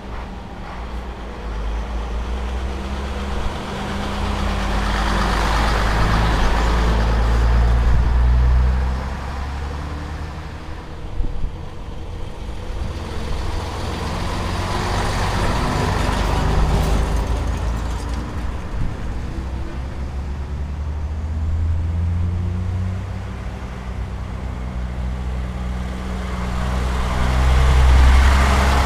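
Vintage Scania-Vabis bonneted trucks driving by one after another, their diesel engines swelling and fading as each passes, the loudest near the end.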